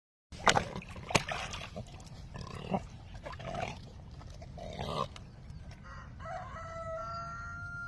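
Chickens giving short, harsh squawking calls, then a rooster crowing: one long, steady call that starts about six seconds in.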